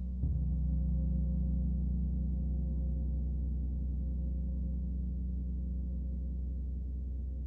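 A gong struck once just after the start, its deep ring of many layered tones sustaining steadily over the ring of the strike before it.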